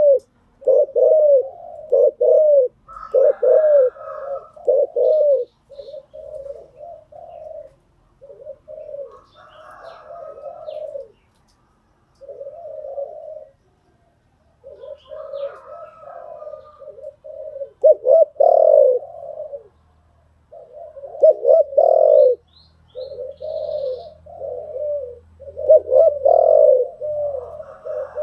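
Spotted doves cooing: repeated deep coos in phrases separated by short pauses.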